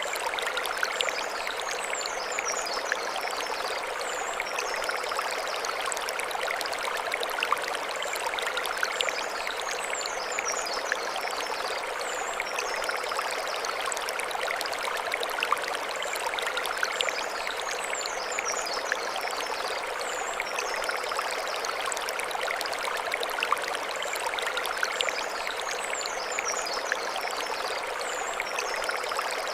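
Mountain stream running over stones: a steady rushing with small splashes and trickles. A high chirping phrase recurs about every eight seconds above the water.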